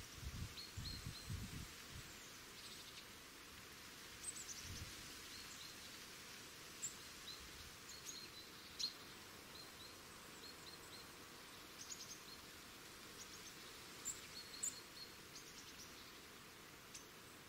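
Faint outdoor ambience with small birds chirping: short, high calls scattered throughout, over a steady low hiss. A few soft low thumps sound in the first two seconds and again about five seconds in.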